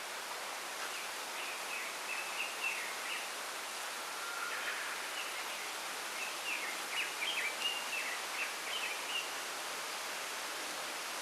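Small songbirds chirping in quick runs of short high notes, in two spells, over a steady rustle of wind through bamboo leaves.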